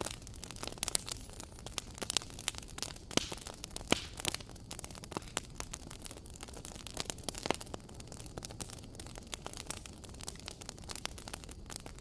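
Wood fire crackling in a fireplace: irregular sharp pops and snaps, a few louder than the rest, over a steady soft hiss.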